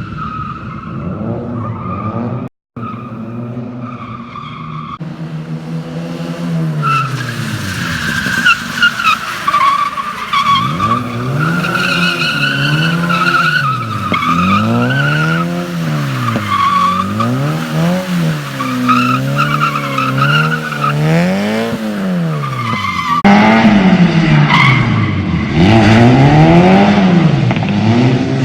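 BMW E36 with a welded rear differential drifting: the engine revs up and drops back again and again, roughly every second or two, with tyres squealing and sliding on wet pavement. The sound cuts abruptly a few times between takes.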